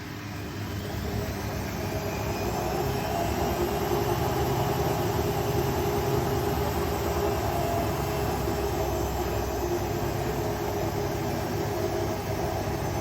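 Indesit Ecosense washing machine on its 800 rpm spin cycle, the drum and motor spinning with a steady hum and whir. The sound builds over the first few seconds as the drum gathers speed, then holds steady.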